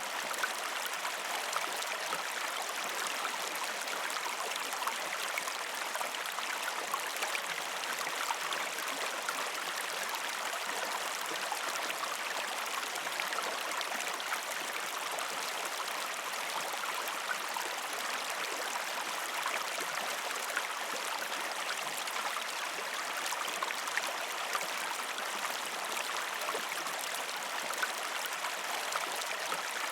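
River stream flowing over rocks: a steady rushing and splashing of water with no breaks.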